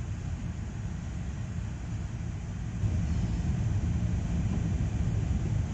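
Car cabin rumble from a moving car: steady low road and engine noise, a little louder from about three seconds in.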